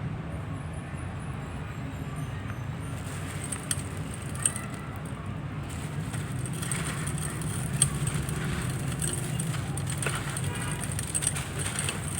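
Dry, gritty handmade crumble material breaking and crumbling in irregular crackles, with a couple of sharp snaps, over a steady low rumble.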